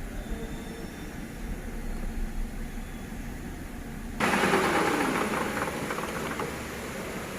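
Toyota Aurion's 2GR-FE 3.5 L V6 starting about four seconds in: it fires suddenly, its revs flare and fall away, and it settles into a steady idle.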